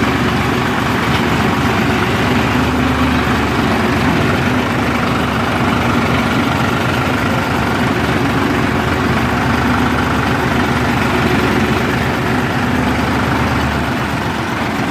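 Heavy diesel engine running steadily, with a deep low hum that eases slightly just before the end.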